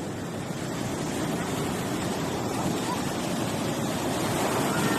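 Sea surf washing onto a beach, a steady rush that builds slightly louder toward the end.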